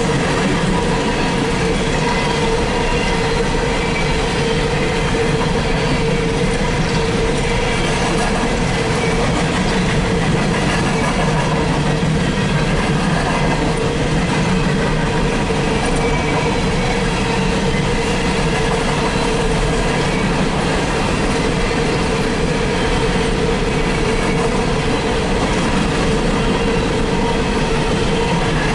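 Empty coal hopper cars of a freight train rolling steadily past on the rails: a continuous rumble and clatter of steel wheels, with a steady tone running under it.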